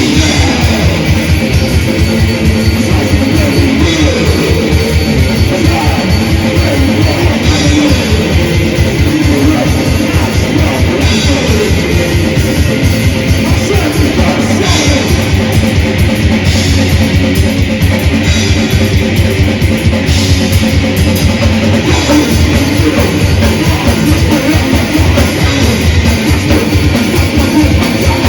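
Death/thrash metal band playing live: distorted electric guitars over fast, driving drum-kit playing.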